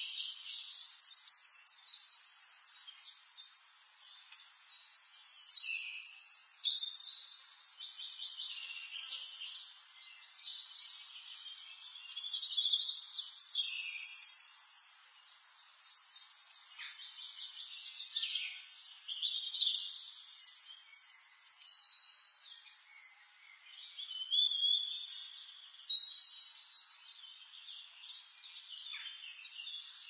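Several songbirds singing and calling, a dense run of trills and whistled phrases one after another.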